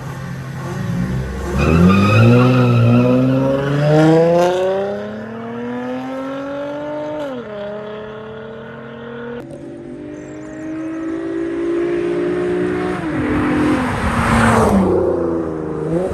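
Race car engine accelerating hard at full throttle, its pitch climbing and then dropping sharply at each gear change, twice. A loud rush of noise comes about fourteen seconds in.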